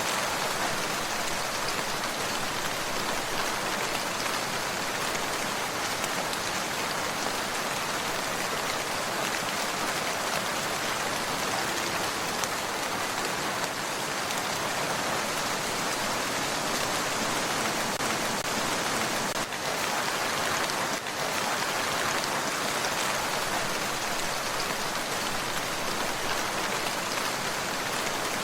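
Steady rain falling on a surface, an even hiss of drops, with a brief slight dip about two-thirds of the way through.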